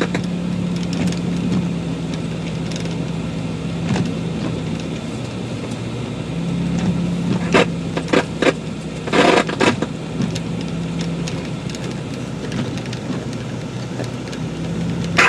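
Jeep TJ being driven, its engine and road noise giving a steady low hum, with a few sharp clicks or knocks about halfway through.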